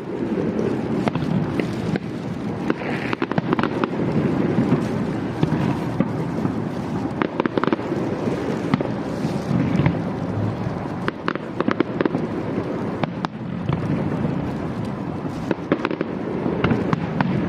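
Aerial fireworks display going off without pause: a dense low rumble of bursts with many sharp cracks and crackles over it.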